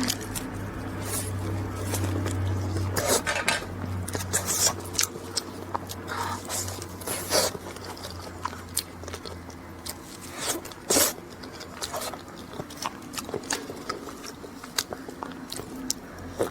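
Close-miked eating of a flaky egg tart: irregular crisp crackles of pastry being bitten and chewed, a few much louder crunches among them. A low steady hum runs underneath for the first ten seconds or so.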